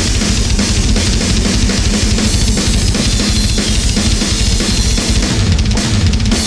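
Loud band music driven by a drum kit, with rapid bass drum strikes and cymbals over a dense, steady wall of sound.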